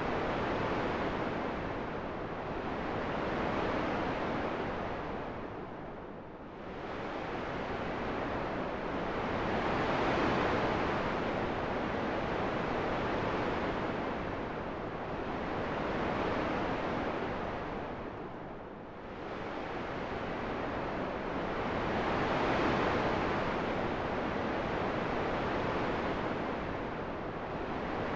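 Rushing wind, a steady hiss that swells and fades every few seconds, dropping to a deeper lull twice, about six and nineteen seconds in.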